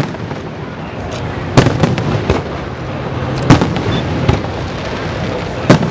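Aerial fireworks bursting: a few loud bangs a second or two apart, with fainter crackles and pops between them over a steady low rumble.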